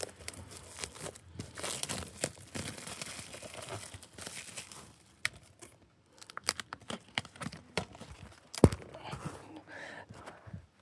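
Plastic shrink wrap being torn and crinkled off a Blu-ray steelbook case, followed by scattered handling clicks and taps on the case, with one sharp click late on.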